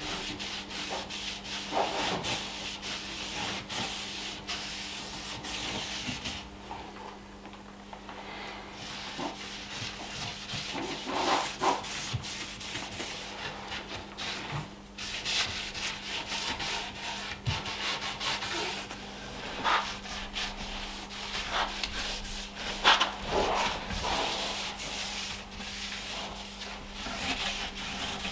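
Hand rubbing strokes on the oak wood of a table base, irregular back-and-forth, over a steady low hum.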